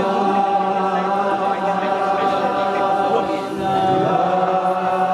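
A group of voices singing a long, steady held note together, with a brief break about three and a half seconds in before the note is taken up again.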